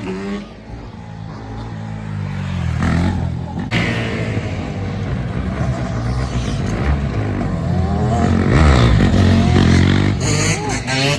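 Motorbike engines revving up and down as they ride past, getting louder and loudest about two thirds of the way through.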